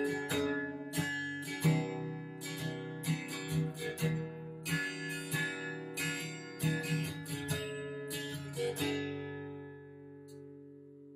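Martin D-15M all-solid-mahogany acoustic guitar being strummed in a steady rhythm of chords; the strumming stops about nine seconds in and the last chord rings on and slowly fades.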